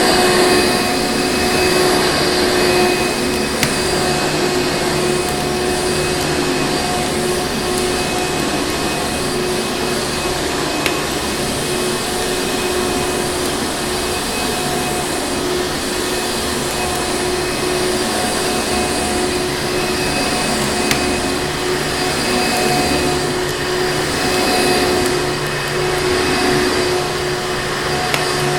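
Vacuum cleaner running steadily, its motor a constant whine over rushing airflow. Three single sharp crackles from a fireplace come through, spread out across the sound.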